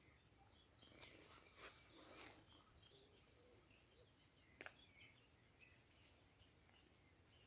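Faint, scattered bird chirps over near silence, with a couple of brief rustling sounds about a second in and a single sharp click about halfway through.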